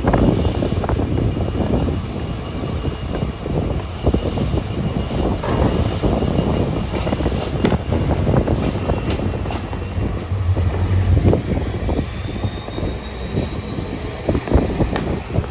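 Passenger train running behind an EMD WDP4 diesel locomotive: a steady rumble with wheels knocking over rail joints, and a high whine that climbs in pitch about ten seconds in.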